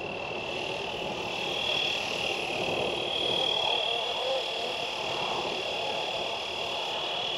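Fly Wing 450L electric RC helicopter in flight: a steady high-pitched motor and rotor whine over an even rushing hiss.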